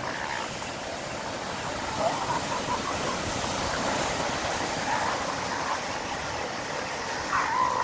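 Elephant seals calling, a few faint drawn-out calls over a steady wash of surf and wind noise.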